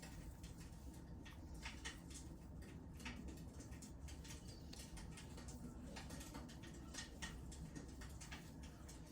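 Wood fire in a fireplace crackling: faint, irregular small pops and snaps over a low, steady background hiss.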